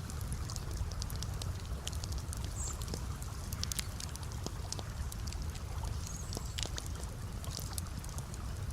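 Campfire crackling, with frequent sharp pops and clicks over a steady low rushing sound and gently trickling water.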